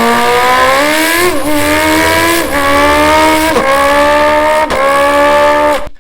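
A man's voice imitating a four-cylinder motorcycle engine accelerating through the gears: a loud, buzzing engine note that climbs in pitch, dips sharply at each of four gear changes about a second apart, and cuts off suddenly near the end.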